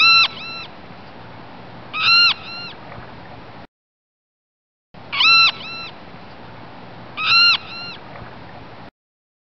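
Seagull squawks: two groups of loud, harsh calls, each a long call followed by a shorter one, over a steady background hiss. The same short recording plays twice, with a second of silence between.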